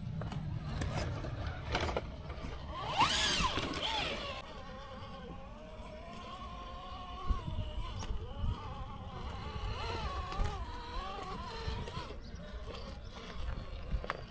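Electric motor of an RC rock crawler whining as it is driven over rough, muddy ground, its pitch rising and falling with the throttle. There is a brief, louder rev about three seconds in.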